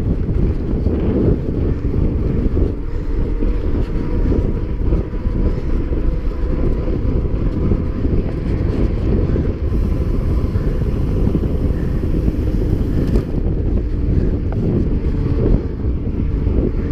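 Loud, steady wind buffeting on the microphone of a camera carried on a mountain bike ridden at speed, a deep rumble with no break.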